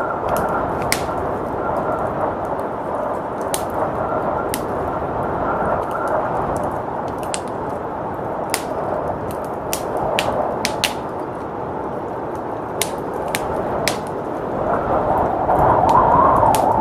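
Wood fire crackling with scattered sharp pops over a steady rush of blizzard wind, which swells in a gust near the end.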